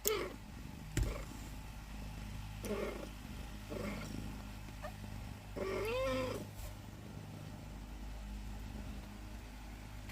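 Persian cat meowing: a few short meows, then a longer meow about six seconds in that rises and falls in pitch. Two sharp knocks come in the first second.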